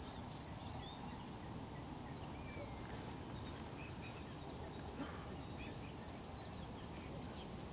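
Faint small birds singing in the distance, short high chirps and whistles scattered through, over a low steady background noise.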